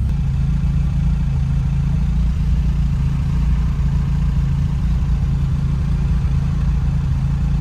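Lotus Elan's twin-cam four-cylinder engine running steadily at a low, even speed, heard from inside the open cabin.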